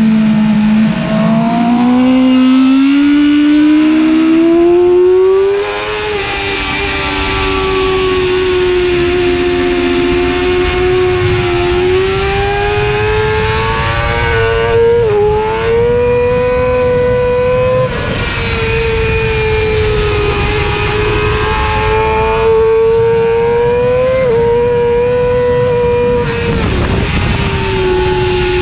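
Yamaha YZF-R6's 600 cc inline-four racing engine screaming at high revs under full throttle. The pitch climbs for several seconds, then holds high with a few quick dips and recoveries at gear changes. Wind rushes over the onboard microphone for most of it.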